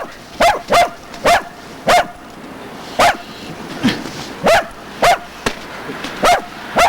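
A dog barking repeatedly: short, sharp barks, about a dozen in all, coming one or two a second at uneven spacing.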